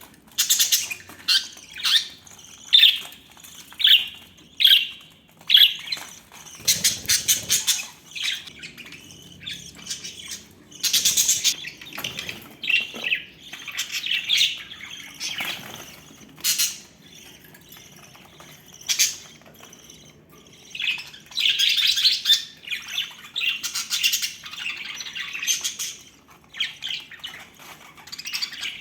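A flock of pet budgerigars chirping and chattering: a steady stream of short high calls mixed with sharper squawks, with a few busier bursts of chatter.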